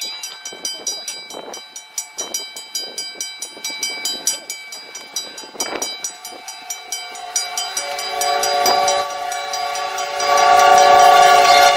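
Train horn sounding as a steady chord from about six seconds in, growing louder toward the end, over a rapid regular clanging of two to three strikes a second.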